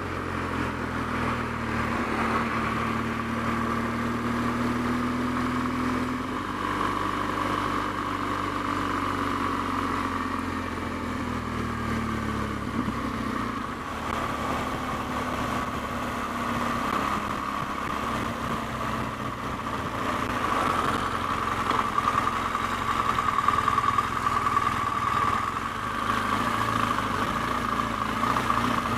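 BMW R1200GS flat-twin engine running under way, its note steady, then falling about twelve seconds in, with a constant rush of road noise; it grows a little louder in the last third.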